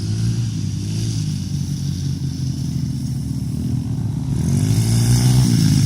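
Pit bikes' small single-cylinder engines racing on a track, revving up and down as the riders accelerate and change gear, growing louder about two-thirds of the way through as bikes come closer.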